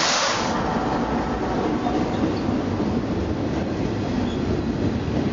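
Canadian Pacific double-stack container freight train passing close by: a mid-train diesel locomotive goes past at the start with a brief loud rush of noise, then loaded container cars roll by with a steady noise of wheels on rails.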